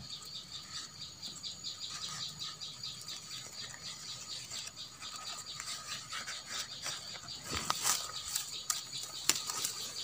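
Prenjak lumut calling with a fast run of short, high chirps, about four a second, typical of parent birds scolding someone close to their nest. About three-quarters of the way through, leaves rustle and twigs click as the plants are handled.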